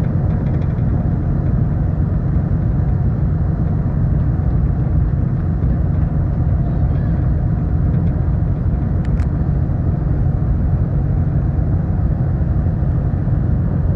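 Steady low rumble of a car ferry under way, its engines and hull droning, with a couple of faint clicks about nine seconds in.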